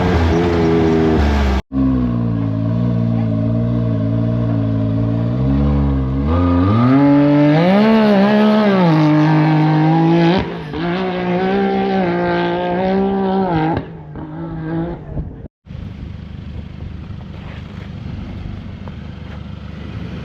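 Off-road buggy engine running hard, its pitch climbing and falling as it revs and lifts off, broken by two abrupt cuts. After the second cut, a steadier rushing noise with less engine tone.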